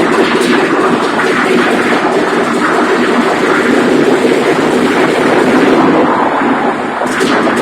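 A diesel engine converted to spark ignition runs steadily and loudly on wood gas, driving a 100 kWe generator. Its running is a dense, even din, with a few sharp clicks near the end.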